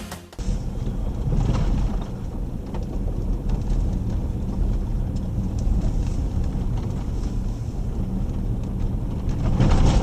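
Jeep Grand Cherokee WK2 driving on a dirt road: a steady low rumble of engine and tyres, with light scattered ticks.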